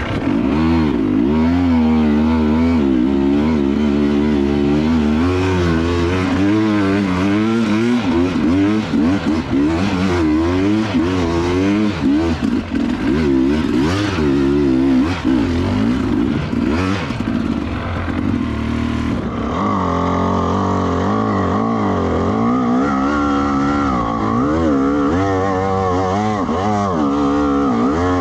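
Two-stroke dirt bike engine being ridden on a trail, its pitch rising and falling constantly as the throttle is worked. About two-thirds of the way through the sound changes abruptly, as at an edit, and the revving carries on.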